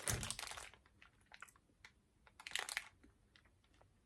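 Plastic candy packet crinkling in two short bursts, one right at the start and a briefer one near three seconds in, with faint scattered clicks between.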